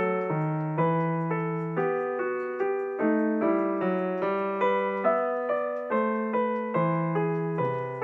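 Background piano music: a gentle, even run of struck notes, about one or two a second, each fading before the next.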